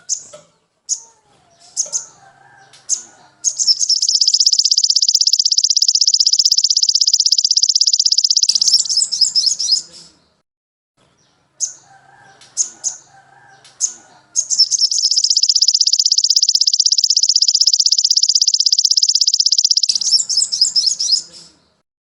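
Songbird song: scattered short high chirps, then two long rapid high-pitched trills of about five seconds each, each ending in a run of quick chirps, with fainter lower warbled calls in the gaps.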